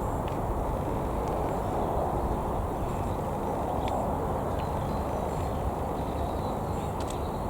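Jet airliner engines heard from beside the runway, a steady rumble with no change in level.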